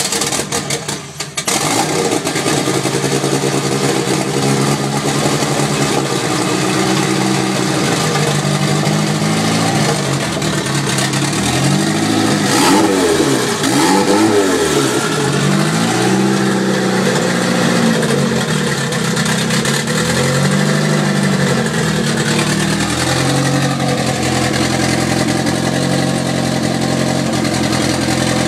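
Mitsubishi 4G63 turbocharged four-cylinder engine in a 1990 Eclipse GSX, just started on its first run after a turbo rebuild with a bigger hotside, new turbo manifold and wastegate. It runs roughly for the first second or two, then settles. The revs rise and fall several times through the middle, then it idles steadily.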